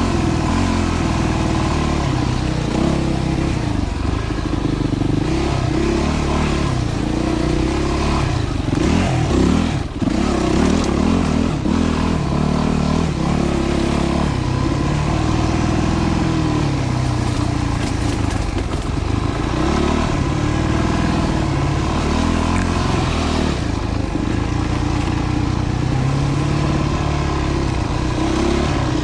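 Yamaha WR250F dirt bike's 250 cc single-cylinder four-stroke engine under way on a trail, its pitch rising and falling as the throttle is worked. The engine note drops briefly about ten seconds in, then picks up again.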